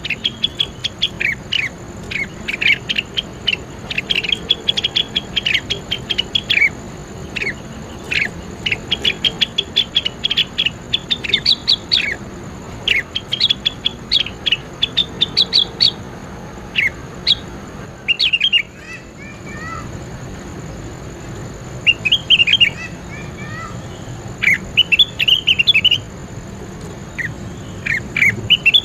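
A caged leafbird (cucak wilis) singing: long runs of quick, high chirps and trills in bursts, with a short lull about two-thirds of the way through broken by a few softer falling notes. A faint steady high-pitched whine runs underneath.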